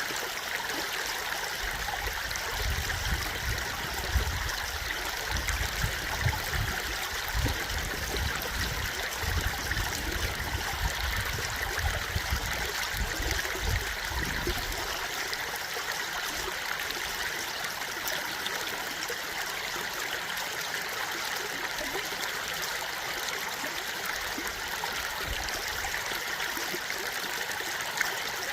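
A stream running steadily, a continuous even rush of water. A low rumble sits under it for about the first half.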